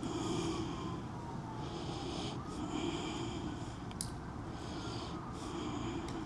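Breathing sounds close to the microphone: about five short, noisy breaths or snorts, each under a second, over a faint steady hum.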